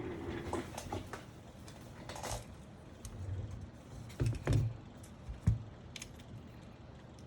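Small clicks, taps and rustles of keyboard parts being handled while the internal cable connectors are plugged back in. A few low knocks come about four to five and a half seconds in, the sharpest near the end of them.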